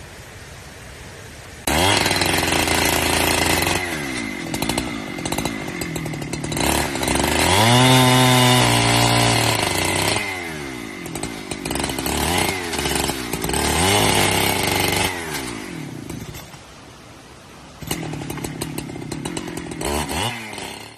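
Chainsaw revving up and down as it cuts firewood, its pitch rising and falling several times, dropping back to a lower run about two-thirds of the way through and revving again near the end.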